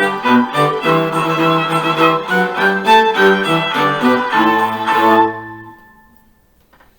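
Cello playing the closing bars of a fast theme-and-variations tune along with a recorded accompaniment, in a run of short bowed notes. It ends on a held low note that stops about five and a half seconds in and rings away.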